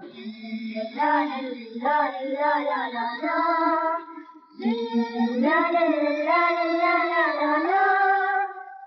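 Children singing a song in held, gliding notes. The singing breaks off briefly about halfway through, then resumes.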